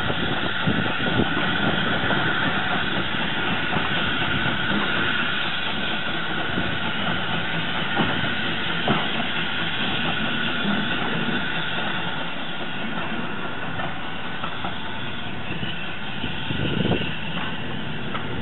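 A steam-hauled train of passenger coaches running away down the line: steady rumble of wheels on track, with a couple of sharp clicks from the rails around the middle, growing slightly quieter as it recedes.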